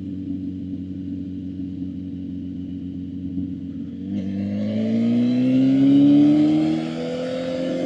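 Suzuki GSX-R750 inline-four engine holding steady revs, then accelerating from about four seconds in, its pitch rising. The revs drop briefly at an upshift near the end, then climb again.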